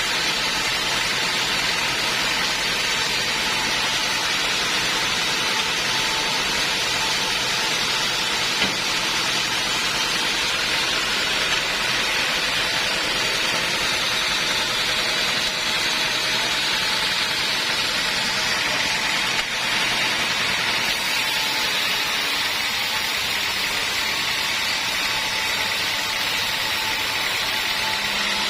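Homemade band sawmill running steadily, its blade sawing through teak wood with a continuous hissing hum.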